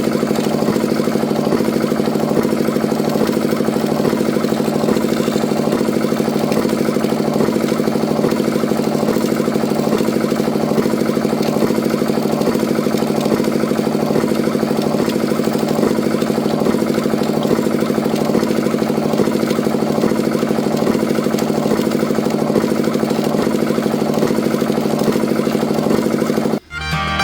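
Small engine of a homemade mini tractor running steadily at a constant speed, with no change in pitch. It breaks off abruptly just before the end, where music starts.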